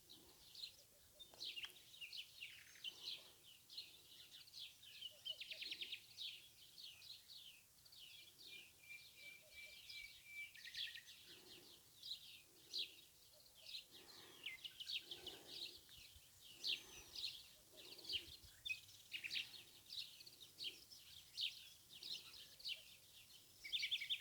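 A chorus of small birds chirping: many short, high, quick down-sweeping chirps overlapping throughout, faint but continuous.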